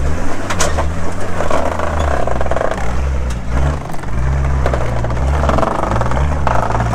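Four-wheel drive's engine revving up and down in repeated surges under load on a rocky climb, with a sharp knock about half a second in and a few fainter ones.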